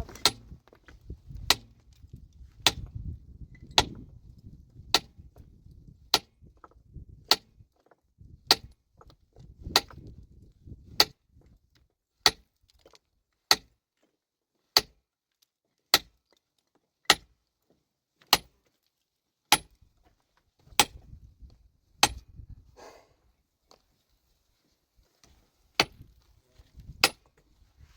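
A metal tool striking stone in a steady rhythm, breaking rock. Sharp, ringing clinks come about once every 1.2 seconds, with low rumbling noise between some strikes.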